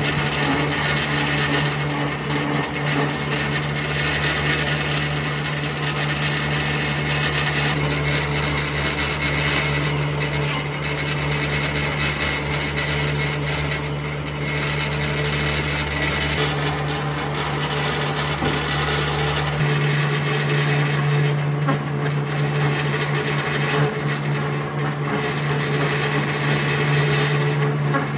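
An electric woodworking power tool running steadily with a constant motor hum, its sound shifting slightly about two-thirds of the way through.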